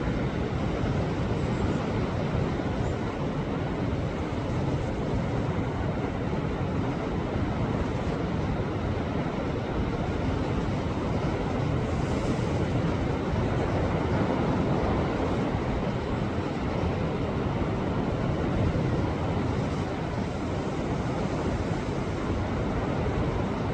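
Sea waves surging against a rocky shore: a continuous, dense wash of surf that swells and eases only a little, with no separate breaks standing out.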